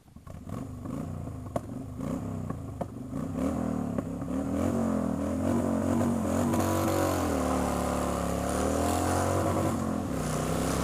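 Motorcycle engine running, its pitch rising and falling as the throttle opens and closes, growing louder about a third of the way in.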